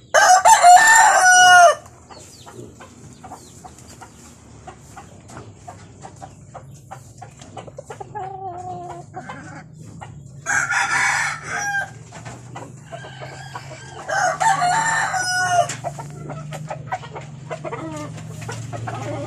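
Roosters crowing three times: a loud crow right at the start, another about ten seconds in and a third a few seconds later. Hens cluck steadily in between.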